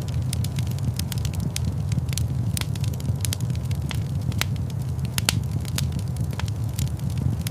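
Fire crackling in a fireplace: frequent irregular sharp pops and snaps over a steady low rumble of the flames.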